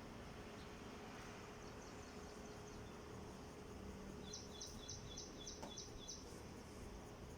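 A bird chirping faintly in a quick series of about eight high notes, roughly four a second, midway through, over a faint steady hum.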